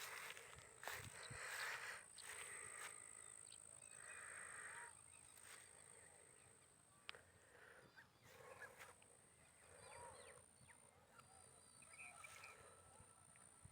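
Faint rural ambience with a few short animal calls over a steady, thin, high-pitched tone.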